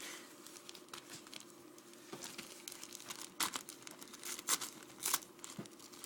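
Wrapping paper crinkling and tearing as a dog pulls at a wrapped present, in irregular rips, the sharpest about three and a half, four and a half and five seconds in.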